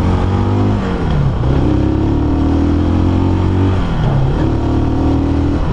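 Motorstar Cafe400's 400cc single-cylinder engine running while riding. Its revs drop and climb again twice, about a second in and near four seconds.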